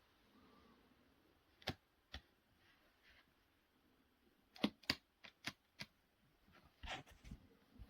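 Near silence broken by a scattering of faint, short clicks and taps, about ten in all, several coming in quick succession about five seconds in.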